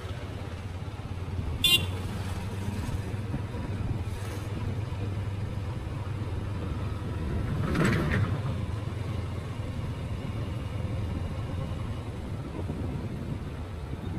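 Motorcycle riding on the road, a steady low engine and road rumble. A short, sharp horn toot sounds about two seconds in, and a louder whoosh swells and fades about eight seconds in, like a vehicle passing close.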